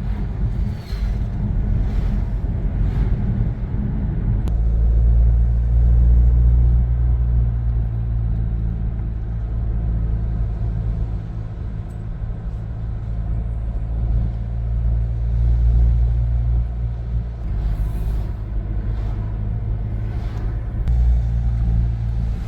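A car driving on the road: a steady low rumble of engine and tyre noise, with a few brief knocks in the first seconds and again near the end.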